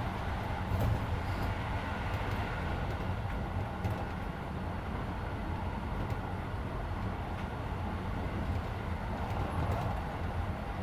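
Keisei 3400 series electric train running on the line, heard from inside the passenger car as a steady rumble of wheels on rail with faint steady tones.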